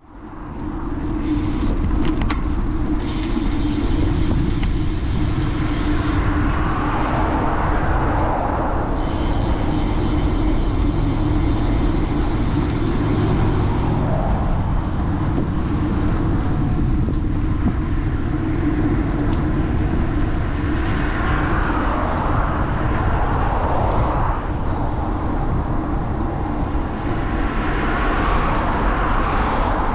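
Steady wind and road rumble picked up by a handlebar-mounted action camera on a moving bicycle, with a few louder swells along the way.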